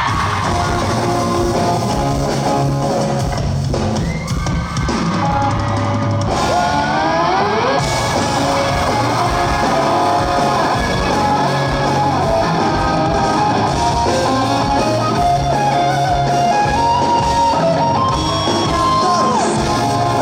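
Live rock band playing an instrumental passage of a song on drum kit and guitars, loud and steady, with a rising sliding note about six to eight seconds in.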